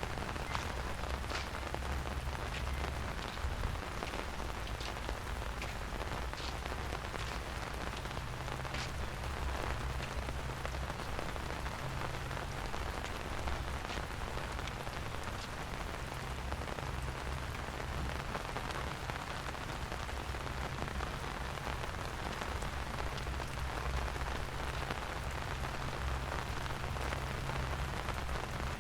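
Steady rain falling, an even hiss with a low rumble underneath. Faint ticks come about once a second during the first ten seconds or so.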